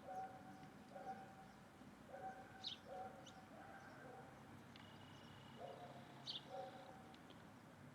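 Birds calling faintly: a repeated short, low two-note call about once a second, with a few sharp high chirps and a brief steady high whistle about five seconds in.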